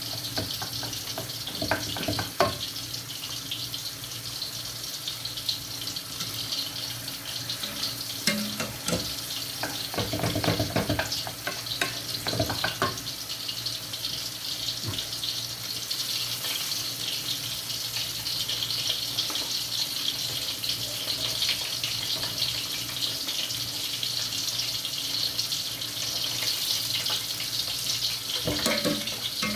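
Food frying in hot oil: a steady sizzle with fine crackling, and a few knocks and clatters from utensils or a pan in the first half.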